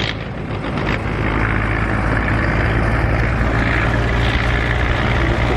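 Large farm tractor's diesel engine running steadily as the tractor moves past, a deep, even engine hum.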